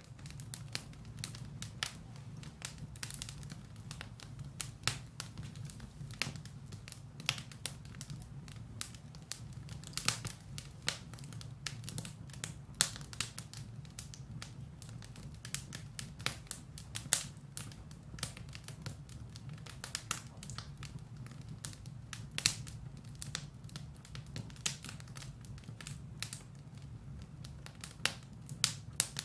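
Firewood burning in a fireplace, crackling with irregular sharp pops and snaps several times a second over a steady low rumble of the flames.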